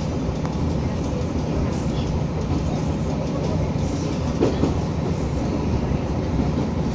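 Materfer diesel railcar running along the track: a steady engine drone under continuous rolling noise from the wheels and rails, with a few short knocks about four and a half seconds in.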